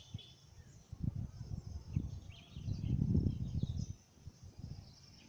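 Outdoor ambience: a gusty low rumble on the microphone, loudest from about one to four seconds in, with faint high chirps above it.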